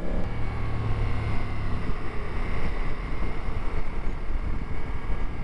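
Motorcycle at road speed: a steady engine hum under wind rush on the rider's microphone.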